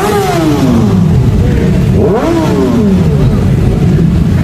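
Motorcycle engines being revved: the pitch falls away from one rev at the start, then climbs sharply to another peak about two seconds in and drops back.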